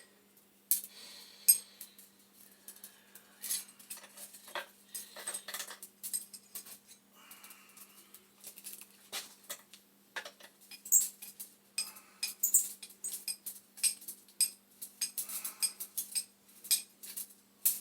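Irregular metallic clicks, taps and clinks of hand tools and small metal fittings as an old standing-pilot part is removed from a gas boiler's burner assembly.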